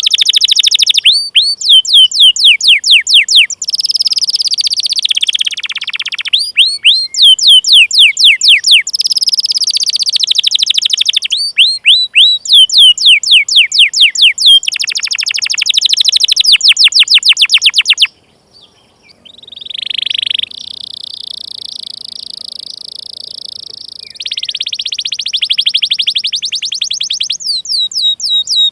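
Canary singing a long song: series of quick downward-sweeping 'cuit cuit' chirps, about five a second, alternating with fast rolling trills, with a brief break about eighteen seconds in.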